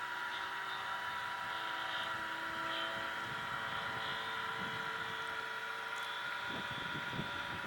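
Radio-controlled aerobatic model airplane in flight, its motor and propeller giving a steady droning note that drifts slowly in pitch as it flies.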